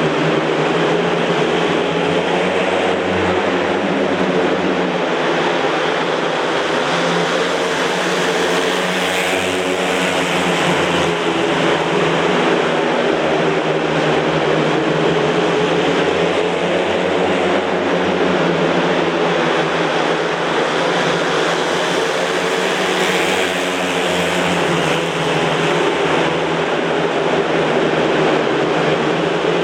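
Several speedway motorcycles racing together: their 500 cc single-cylinder methanol engines run hard and steady at high revs, pitches shifting as the bikes go round.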